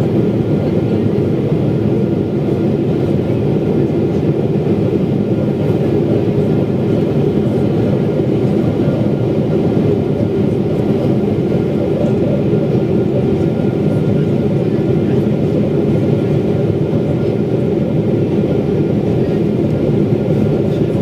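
Steady low noise of jet engines and rushing air heard inside the cabin of a Boeing 777-300ER during descent, with no change in level.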